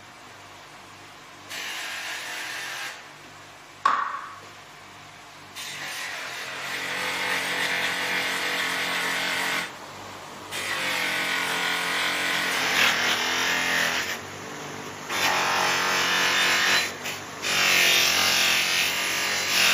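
A power tool grinding metal in repeated passes a few seconds long, with a steady motor hum between them and a single sharp knock about four seconds in.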